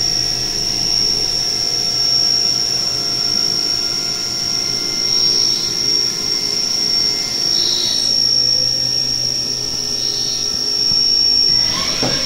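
CNC vertical machining center running its program, the spindle turning a face mill at high speed with a steady high-pitched whine. A brief swishing burst comes about 12 seconds in.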